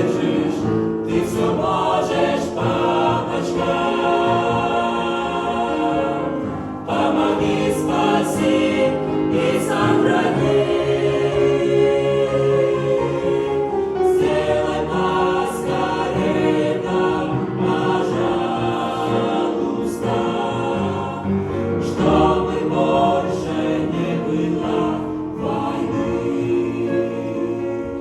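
Music with a choir singing: many voices holding long, sustained notes.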